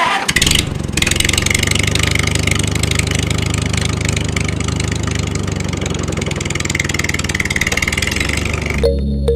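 An engine running steadily with a rapid, even chatter. It begins abruptly and cuts off shortly before the end.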